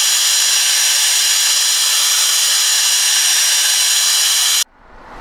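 A small 12 V vacuum-cleaner motor and fan running steadily with a high whine, cutting off abruptly about four and a half seconds in. A short whoosh then swells and fades.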